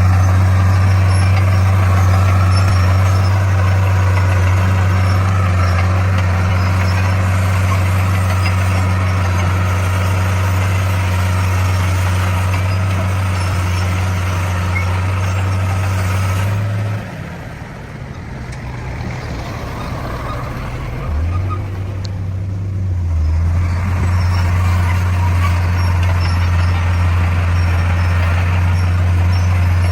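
D41 bulldozer's diesel engine running under load with a steady low drone; it drops off about 17 seconds in and comes back up about six seconds later.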